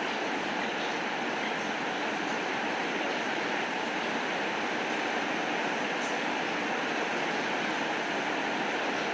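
Steady rain falling, an even hiss of rain noise, with a few faint ticks of individual drops.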